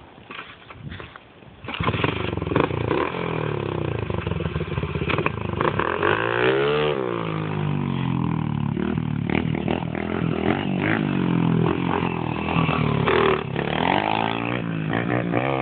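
Pit bike's 107 cc single-cylinder four-stroke engine running and revving, its pitch rising and falling several times. It gets loud about two seconds in.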